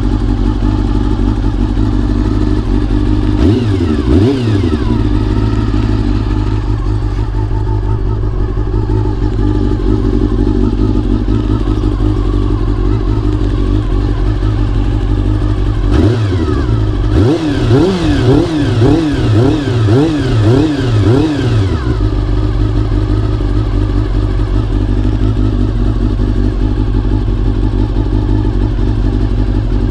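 Honda CBR400RR (NC29) 400 cc inline-four idling steadily, running on a CBR600F fuel pump fitted to cure an abnormal fuel-pump noise. The throttle is blipped once about four seconds in, then again in a rapid run of about eight blips between about 16 and 22 seconds, each rev rising and falling quickly back to idle.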